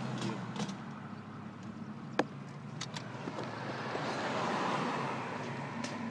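Car driving along: steady engine and road noise heard from inside the cabin, with a few sharp clicks and knocks, the loudest about two seconds in, and the road noise swelling a little past the middle.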